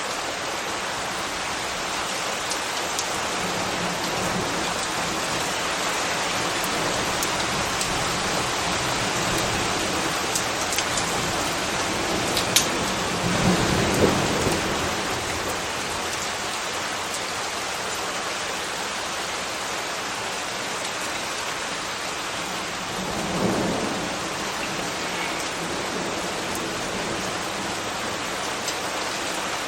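Steady rain falling and pattering on hard surfaces. Twice there is a brief low swell, about halfway through and again later, and once a single sharp tick.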